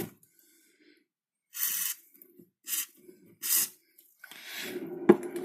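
A brush scrubbing dust off a skateboard wheel bearing in three short scratchy strokes. Near the end a steadier noise sets in, with a sharp click.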